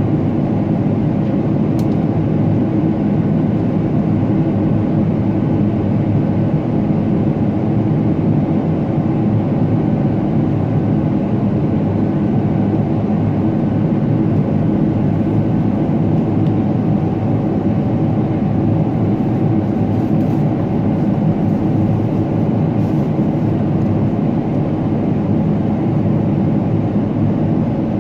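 Steady cabin noise inside a Boeing 777-300ER airliner: a constant rush of engine and airflow noise with no change in level.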